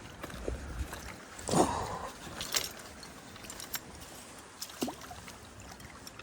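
Creek water splashing and gurgling with scattered clicks and knocks, as a hooked smallmouth bass is fought and brought in.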